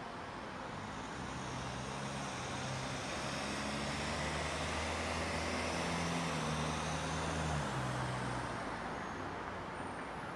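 A motor vehicle passing: its low engine hum grows over the first few seconds, is loudest about seven seconds in, and fades away by about nine seconds, over a steady background hiss.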